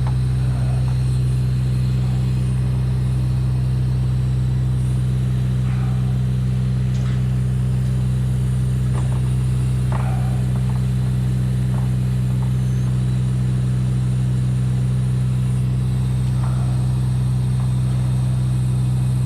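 An engine running at a steady, unchanging speed, a constant low hum, with a few faint knocks and clicks over it.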